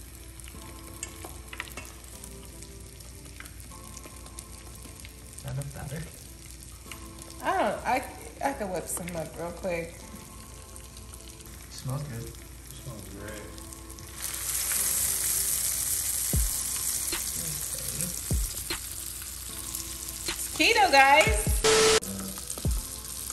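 Batter-coated Oreo frying in oil in a nonstick skillet: a steady sizzle that gets louder and brighter about two-thirds of the way through. A few brief muffled voice-like sounds come and go, the loudest near the end.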